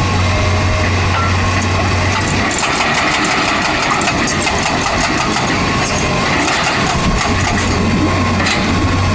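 Excavator's diesel engine running steadily, its low hum weakening for a few seconds in the middle.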